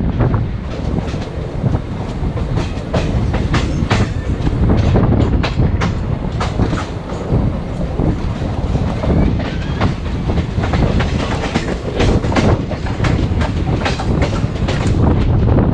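Indian Railways express passenger coach running at speed, heard from just outside the coach side: a steady low rumble of wheels on rail with frequent sharp clicks as the wheels run over the track.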